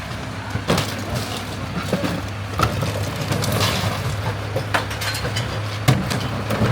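Mack garbage truck's diesel engine running steadily while recycling clatters and clinks, glass and containers knocking together as they are tipped into the hopper. Sharp knocks come irregularly, the loudest about a second in, midway and near the end.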